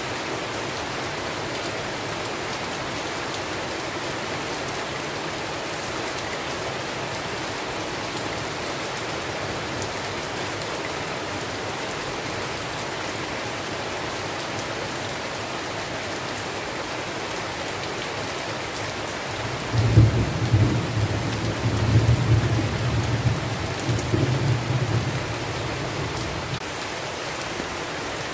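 Steady heavy rain falling. About twenty seconds in, a roll of thunder rumbles for about six seconds, loudest at its start.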